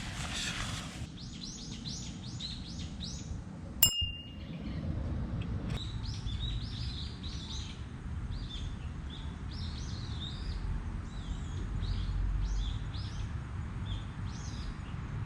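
Bird chirping in quick repeated notes, a few a second, over a steady low rumble of outdoor background noise. A single sharp clink sounds about four seconds in.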